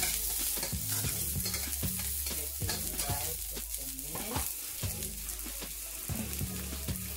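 Sliced onion and spring onion frying in hot oil in a frying pan, a steady sizzle with frequent crackles. A spatula stirs them against the pan at the start.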